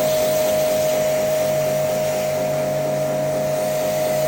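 A motor-driven machine running steadily, with an even high whine over a constant hiss.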